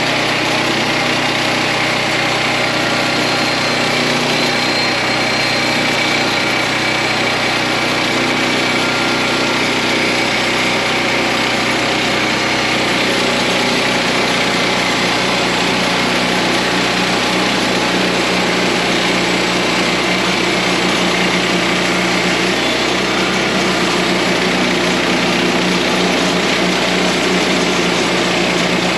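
Portable sawmill's small gasoline engine running steadily at high speed.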